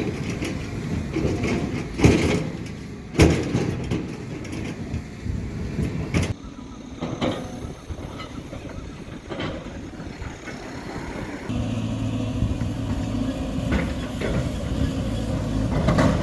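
Diesel engine of heavy earthmoving machinery running, with loud metallic clanks about two and three seconds in and another about six seconds in. Near the last third the engine note becomes steadier and louder.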